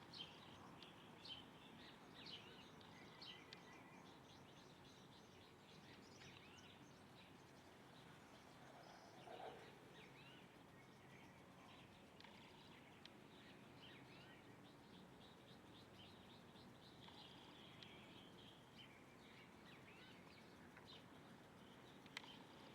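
Faint chorus of small songbirds chirping and trilling with many short high calls, over a steady background hiss, with one lower call about nine seconds in.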